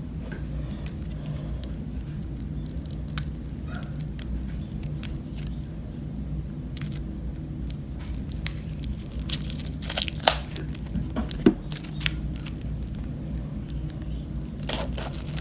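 Oracle cards and their packaging being handled: scattered rustles, crinkles and light taps, busier and louder about two-thirds of the way through, over a steady low hum.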